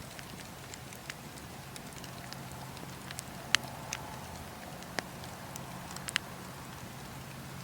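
Wood fire crackling: firewood burning with scattered sharp pops, the loudest about halfway through and a quick pair near the end.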